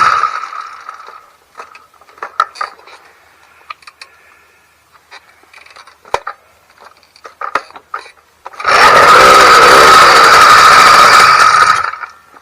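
YD100 two-stroke motorized-bicycle engine on its first start-up, still being broken in. It dies away at the start, leaving a few light clicks and knocks. About nine seconds in it fires and runs loudly for about three seconds, then cuts out again.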